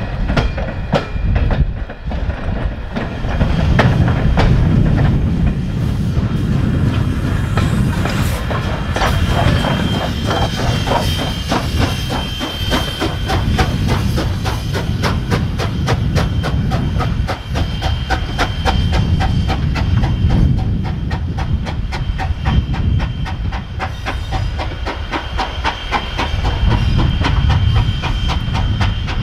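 Steam-hauled train rolling past on jointed track, its wheels clicking rapidly over the rail joints over a low rumble. A thin, steady high tone runs through the latter two thirds.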